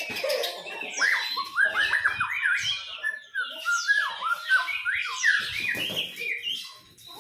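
White-rumped shama (murai batu) singing a fast, varied run of sliding whistled notes, starting about a second in.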